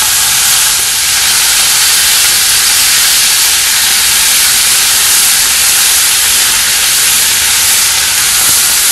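Mixed vegetables (carrot, capsicum, peas, sweet corn) frying in a pan with a loud, steady sizzling hiss, while spoonfuls of the canned sweet corn's liquid go in.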